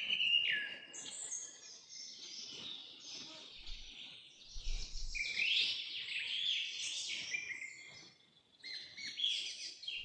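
Several songbirds singing and chirping together, with quick overlapping whistled notes, many of them falling in pitch; they pause briefly near the end.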